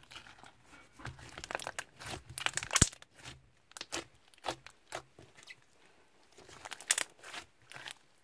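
Slime being squeezed and stretched by hand, giving irregular crackles, clicks and pops, loudest around three seconds in and again about seven seconds in.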